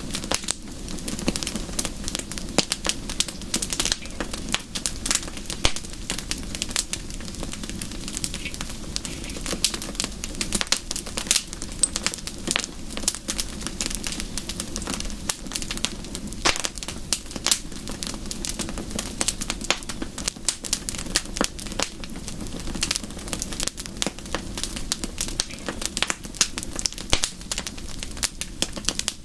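Fireplace fire crackling, with dense, irregular sharp pops over a steady low rumble.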